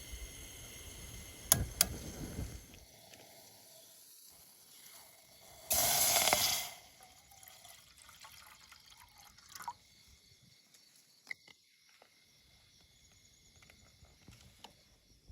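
A brief rush of water being poured, about one second long, near the middle, with a few sharp clicks and small knocks around it. Faint steady insect chirring runs underneath.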